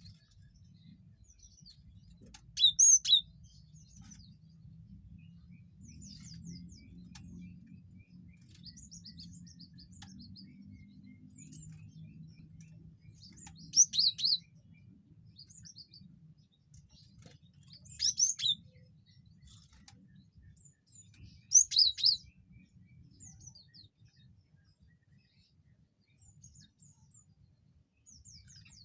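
Cinereous tit (gelatik batu) calling: four loud, short bursts of two or three quick, high notes spaced several seconds apart, with fainter chirps in between.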